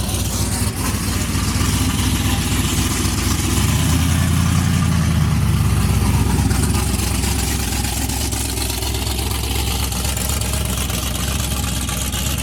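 Car engine with an aftermarket camshaft idling, louder between about four and seven seconds in. The onlookers take the idle for that of at least a stage 3 cam.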